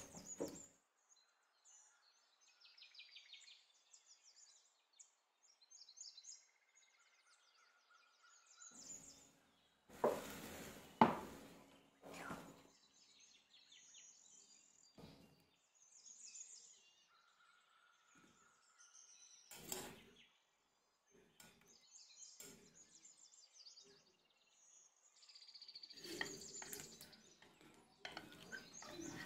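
Faint bird chirps, with a few short knocks or clatters about ten seconds in, once more around twenty seconds in, and again near the end.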